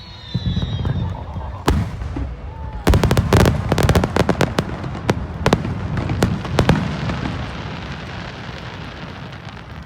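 Fireworks bursting over the beach: a low boom near the start and a single sharp crack, then from about three seconds in a rapid string of crackling bangs. The bangs thin out to scattered cracks and leave a fading rumble over the last few seconds.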